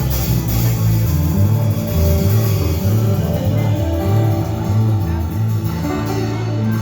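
Live blues band playing an instrumental passage: a bass line stepping from note to note under guitar and the rest of the band.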